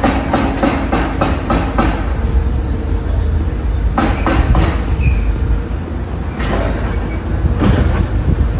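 Construction-site noise: a steady low machinery rumble, with a quick series of knocks, about four a second, in the first two seconds, then scattered knocks in the middle and near the end.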